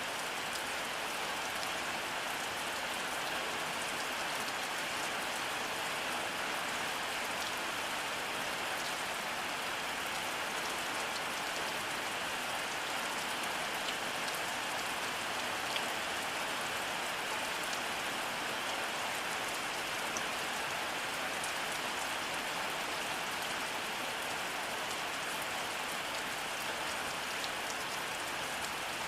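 Steady rainfall, an even hiss of rain with a few distinct drop ticks now and then.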